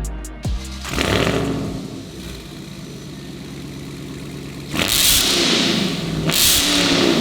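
Supercharged 6.2-litre Hemi V8 of a Dodge Charger Hellcat Redeye Jailbreak through a new aftermarket exhaust: a loud rev about a second in that settles to idle, then two sharp revs near the end, about a second and a half apart. The exhaust is really loud.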